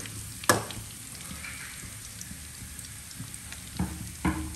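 Minced garlic sizzling steadily in oil in a steel wok, with a metal spatula knocking against the wok about half a second in. Two smaller knocks come near the end.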